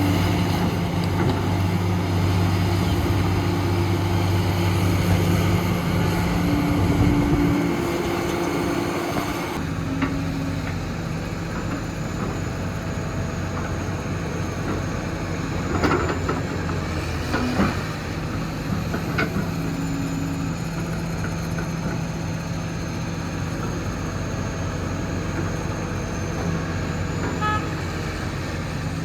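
Heavy diesel construction machinery running steadily, its engine note changing abruptly about a third of the way through, with a few metallic clanks and knocks past the middle, as of an excavator working or loading a dump truck.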